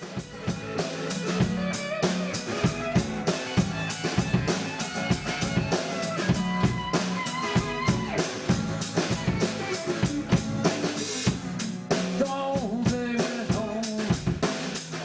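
A live band playing an instrumental stretch of a song between sung verses, with a drum kit keeping a steady beat of snare and bass drum under pitched instruments.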